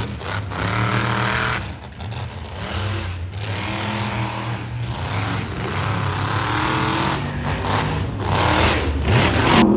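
Monster truck engine revving hard, its pitch rising and falling again and again as the throttle is worked, with short drops between bursts.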